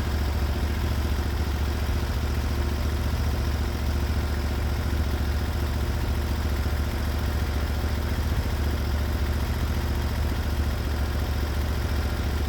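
Engine of a Norwood HD36v2 portable band sawmill running steadily at an even speed.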